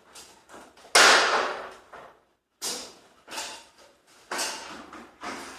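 A series of sharp knocks and clatters, a few each second, the loudest about a second in.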